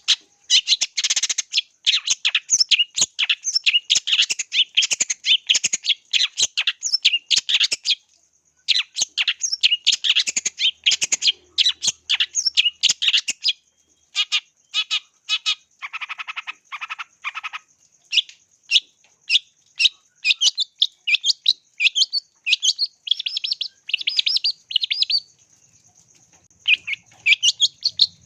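Long-tailed shrike (cendet) singing a fast, chattering string of sharp, high notes, with brief pauses about eight seconds in and near the end.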